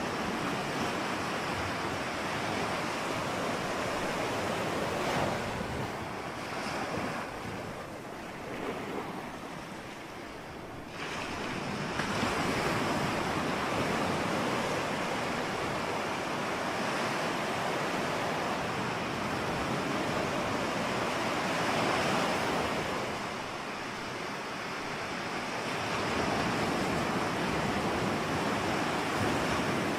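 Ocean surf: waves breaking and washing in as a continuous rushing noise. It ebbs for a few seconds about a quarter of the way in, surges back abruptly with the next wave, and ebbs once more later on.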